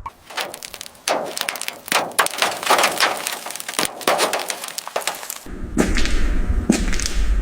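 A rapid, irregular run of sharp knocks and clicks of hand work on the vehicle, with a low steady rumble joining about five and a half seconds in.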